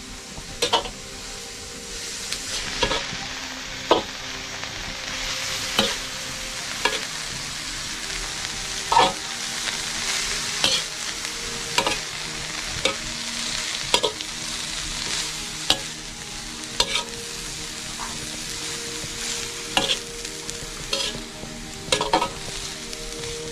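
Food sizzling in a pan with a steady hiss, while a metal utensil stirs and scrapes it, knocking against the pan about once a second.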